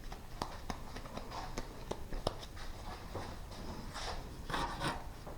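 Irregular light clicks and knocks of objects being handled, with short scraping or rustling sounds near the end.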